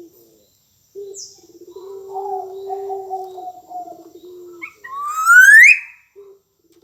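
Black-naped oriole calling: a low, steady, fluttering call is followed near the end by one loud rising whistle.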